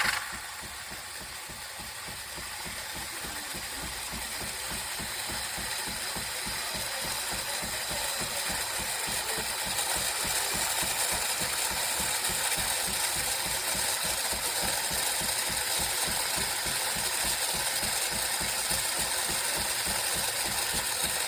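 Philips Series 2300 fully automatic espresso machine running through a brew cycle: a steady mechanical whir with a fast, even pulsing underneath, slowly growing louder.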